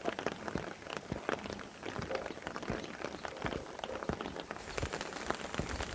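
Rain falling, with many separate drop hits on a surface over a steady hiss.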